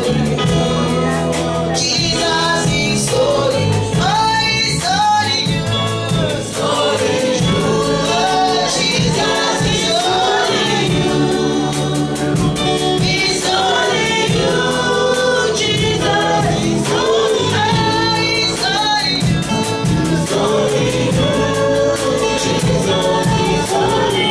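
Gospel worship song: a choir and singers with band accompaniment and a steady beat.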